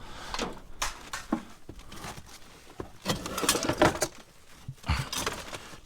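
Junk being handled and shifted in a dumpster: irregular knocks, clatter and rustling, busiest about three to four seconds in.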